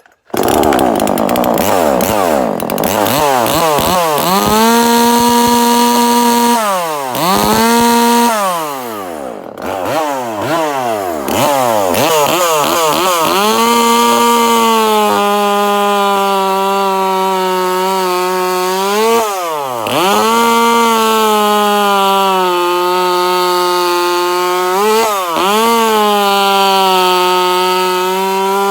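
A Husqvarna 136 two-stroke chainsaw, bored out to 42cc with a big bore kit, runs at full throttle as it cuts through wood. The engine is let off and revved back up several times, with quick falling-and-rising sweeps in pitch. Its note then holds steady at high speed through long cuts.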